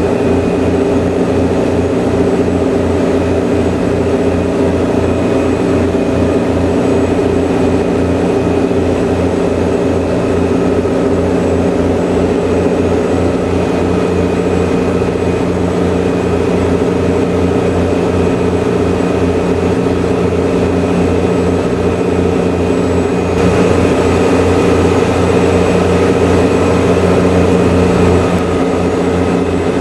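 Engines of a high-speed passenger ferry heard on board, a steady loud drone with a fast, even low throb. From about two-thirds of the way in, a rush of hiss is added for several seconds, then drops away.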